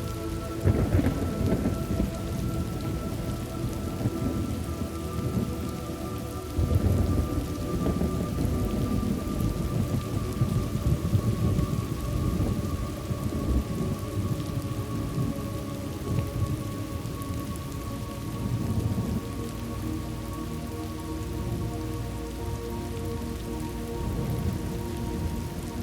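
Thunderstorm ambience: steady rain with rolling rumbles of thunder. The heaviest rumbles come about a second in and around seven seconds in, with smaller ones after.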